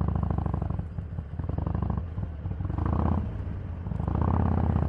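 Harley-Davidson 883's air-cooled V-twin engine running on the move, its throttle rolled on and eased off again and again so the engine sound swells and falls back about every second and a half.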